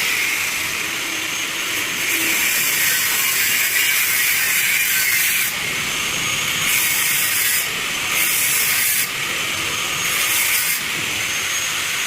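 A loud, steady hiss that starts suddenly, with its high edge dropping back and returning several times.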